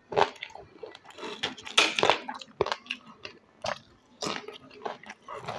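Potato chips being crunched and chewed close to the microphone: a quick, irregular string of crisp crunches.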